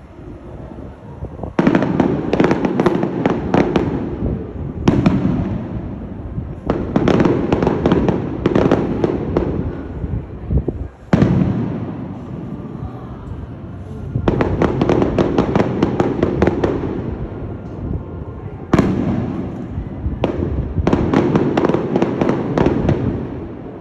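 Aerial fireworks going off in about seven waves, several opening with a sudden loud bang and each filled with dense rapid crackling that trails away before the next begins.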